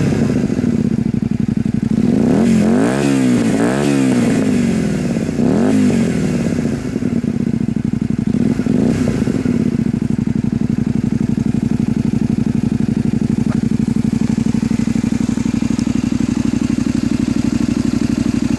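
Honda Varadero 125's V-twin engine, breathing through an aftermarket Devil exhaust, idling at standstill. It is blipped up and down in a quick series of revs between about two and six seconds in and once more near nine seconds, then settles back to a steady idle.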